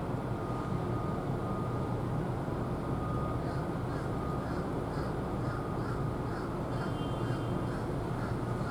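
Steady low outdoor rumble at a port. A few seconds in, an evenly spaced run of short, high calls joins it, about two a second, and keeps going.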